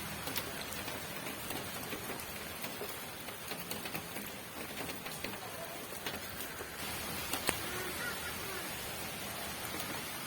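Steady rain falling, an even hiss with scattered sharper drops ticking close by, one more distinct drop about seven and a half seconds in.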